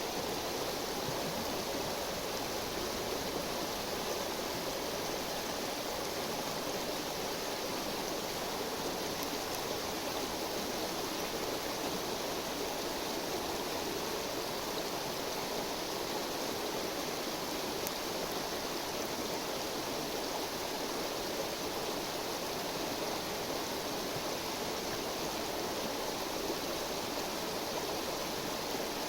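A river's steady babbling flow, even throughout.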